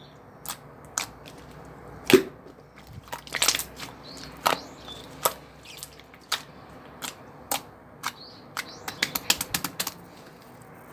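Irregular sharp clicks and taps, unevenly spaced, with a quick run of them near the end, like small hard objects being handled.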